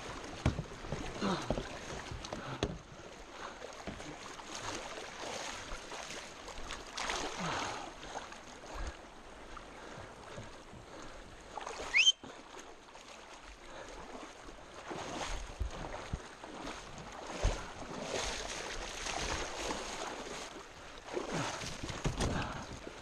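Kayak on a river: paddle strokes splashing and water moving around the hull, in uneven swooshes every few seconds. A short, sharp rising squeak about halfway through is the loudest sound, with a single knock a few seconds later.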